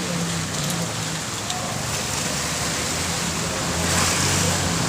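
Steady rain falling, with a low steady engine hum beneath it and a louder swell of the rush about four seconds in.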